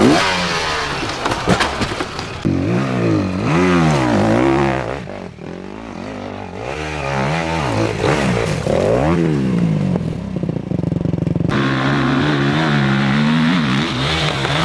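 Enduro dirt bike engine revving up and down over and over, its pitch rising and falling every second or so. About three quarters of the way through the sound changes abruptly to a steadier, brighter engine note.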